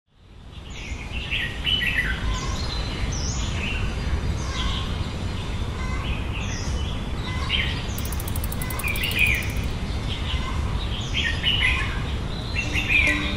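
Birds chirping and calling, many short repeated calls overlapping one another over a steady low background rumble. The sound fades in over the first second or so.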